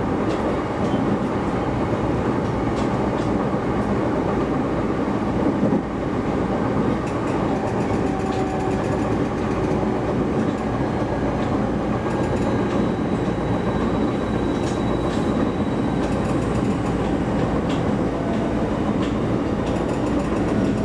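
Shinano Railway SR1 series electric train running on the line, heard from inside the car: a steady rumble of wheels on rail, with scattered clicks as the wheels pass over rail joints.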